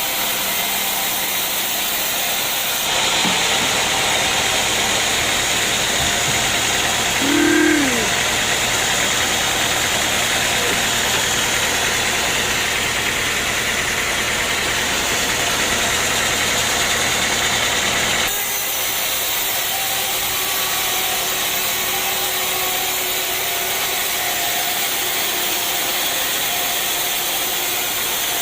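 Sawmill machinery running steadily. An engine with a low steady hum joins about three seconds in and cuts off suddenly about eighteen seconds in.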